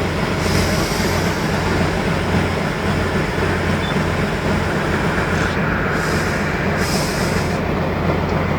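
Tatra 813 truck's diesel engine running steadily with a deep, even drone.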